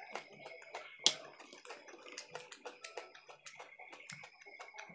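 Close-up chewing and lip-smacking of people eating chowmein noodles and fried egg by hand: a quick, irregular string of small wet mouth clicks, with one sharper click about a second in.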